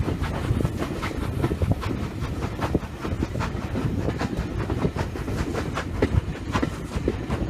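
Railway carriage wheels running on the track behind GWR small prairie tank engine 5542: a steady rumble with frequent irregular clicks and knocks, heard from an open carriage window.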